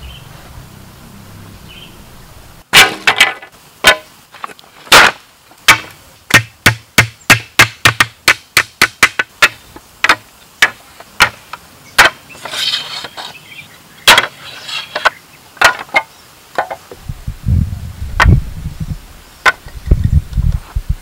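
Repeated sharp blows of a tool on bamboo during construction work: a few heavy strikes, then a quick even run of about three blows a second, thinning to scattered strikes, with a low rumble near the end.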